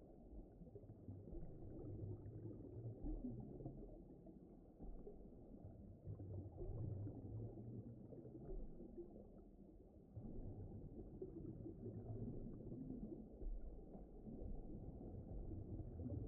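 Low, muffled rumbling ambience with nothing high in it, swelling and easing every few seconds, like a deep-water ocean soundscape.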